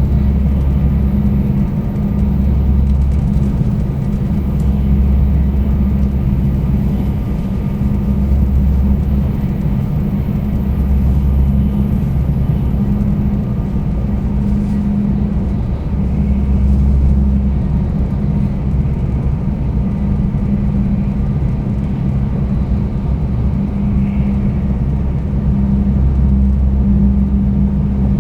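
Cabin running noise inside a 300 Series Shinkansen Green Car: a steady deep rumble that swells and eases every few seconds.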